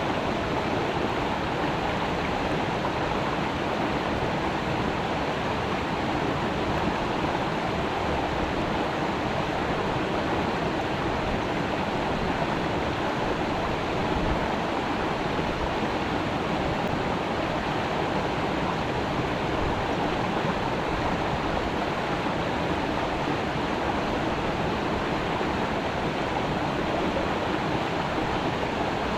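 Creek water flowing over rocks: a steady, even rush with no breaks.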